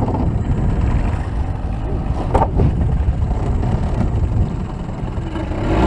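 Boat motor running with a steady low rumble, and a sharp clunk about two and a half seconds in as the anchor rope wraps once around the propeller.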